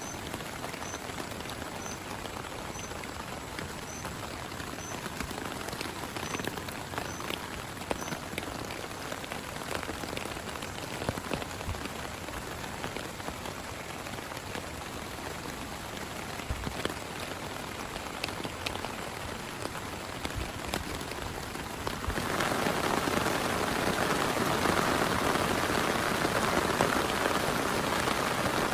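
Steady rain falling, with scattered individual drops ticking. About 22 s in it jumps abruptly louder and denser, becoming a heavier downpour.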